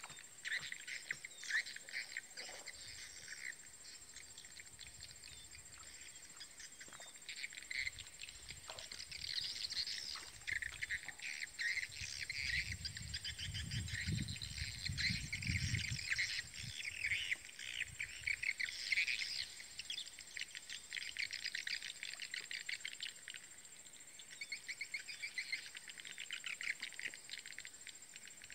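Birds chirping in quick repeated runs, with a low rumble for a few seconds around the middle.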